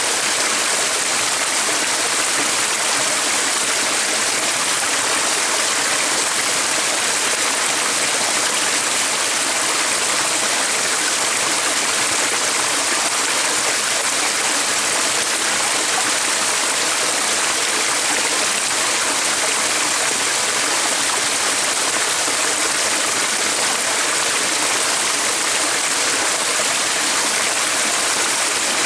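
Water running in a stream, a steady rushing hiss that stays even throughout.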